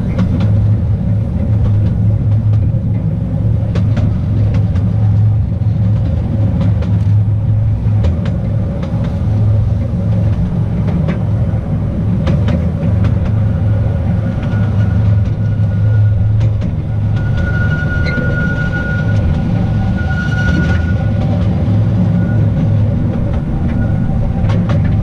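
The Artouste narrow-gauge electric train running along its track: a steady low rumble of wheels on rails, with scattered clicks over the rail joints. In the second half a thin high wheel squeal comes and goes.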